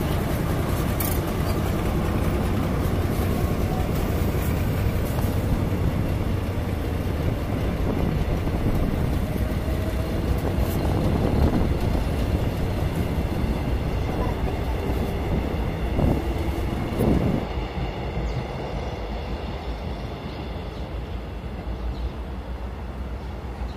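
A train running, a steady low rumble with a constant drone under it. There are a couple of brief sharper sounds about two-thirds of the way through, and after that the higher hiss falls away and the rumble gets a little quieter.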